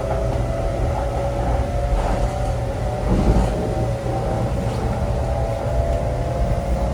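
Taiwan High Speed Rail train running: a steady low rumble with a thin, steady whine over it.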